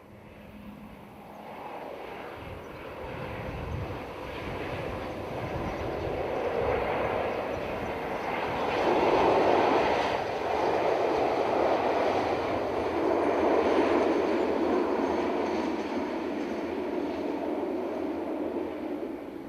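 Class 47 diesel locomotive approaching and passing with its train: engine and rolling noise grow steadily louder over the first nine seconds and stay loud as it goes by.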